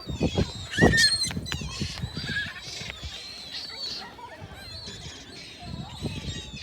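Many birds chirping and calling over one another, with a louder call and some low thumps about a second in.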